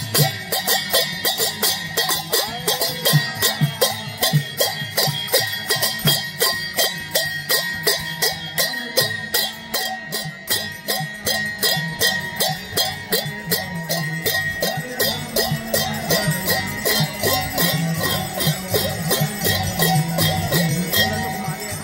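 Devotional kirtan music: small hand cymbals (kartals) clashing a fast, steady beat over chanting and accompanying instruments.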